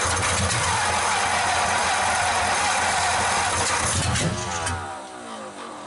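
V8 engine running loud on open headers, no mufflers, then shut off about four seconds in, dying away with a falling pitch.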